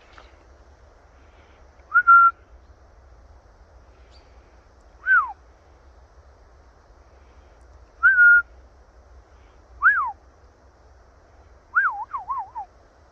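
Parrot whistling clear, pure notes, about five phrases a couple of seconds apart: short held notes and quick rise-and-fall swoops, the last a rapid warbling run of three or four swoops near the end.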